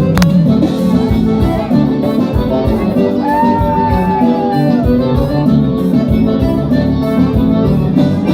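Forró band playing an instrumental passage with a steady beat. About three seconds in, a lead line slides up and then falls away over two seconds.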